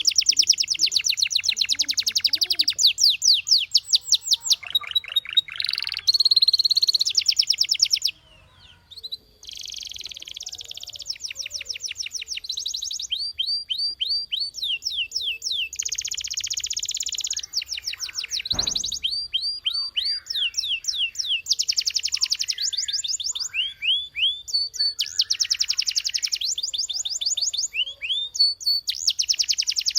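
Canary singing a long song of fast rolling trills and runs of rising repeated notes, with a short pause about eight seconds in.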